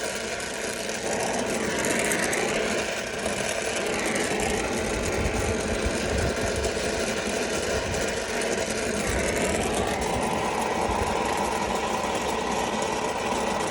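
Brazing torch flame burning steadily while a 3/8-inch copper line is brazed to a filter drier; the sound is a steady roar, changing slightly in tone about ten seconds in.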